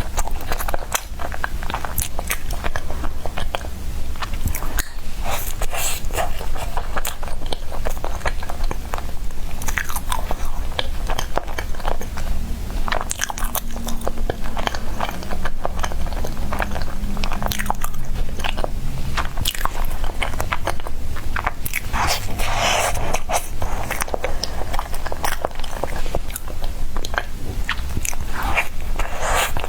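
Close-miked biting and chewing of soft bread: a continuous run of small mouth clicks and crackles.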